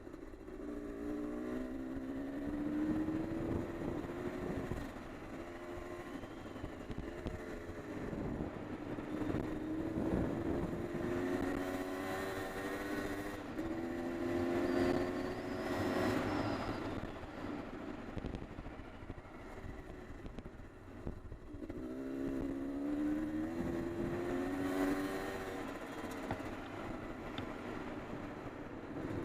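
Honda CR250R two-stroke dirt bike engine revving up and down again and again as it rides a trail, its pitch rising and falling with each throttle change.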